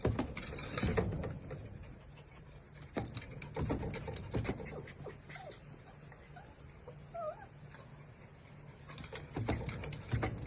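A pet animal's few faint, short calls among scattered knocks and rustling.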